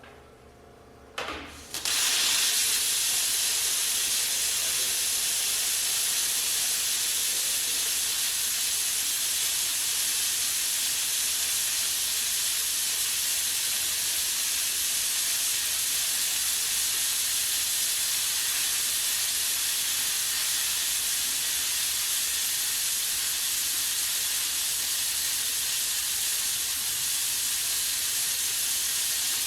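Automatic tube lathe in its run cycle: a short burst about a second in, then a loud, steady hiss starts and holds without change.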